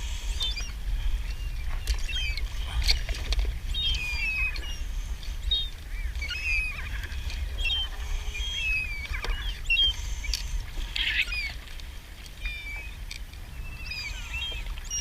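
Many short, high, chirping bird calls that glide in pitch, repeating throughout, over a steady low rumble.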